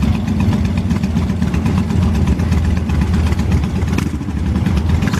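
Engines of classic cars cruising slowly past, a steady deep exhaust rumble.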